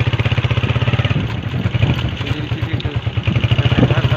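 Motorcycle engine running with a steady, rapid beat.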